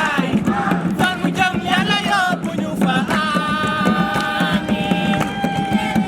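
Singing over a fast, steady percussion beat, the voice holding long notes from about three seconds in.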